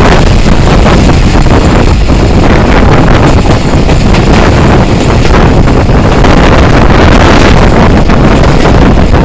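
Loud, steady wind buffeting the microphone at the open window of a moving Pakistan Railways passenger coach, over the running noise of the train on the track.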